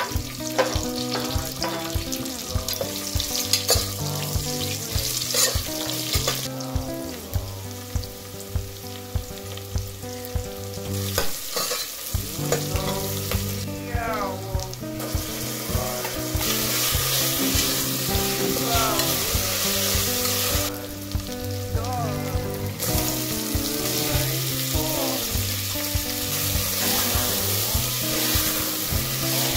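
Food sizzling as it fries in a pan, over background music with a steady beat; the sizzle grows louder in the second half.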